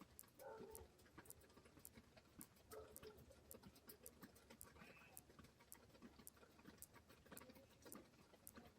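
Faint rain: scattered drops tapping irregularly, several a second, with a few soft low thuds among them.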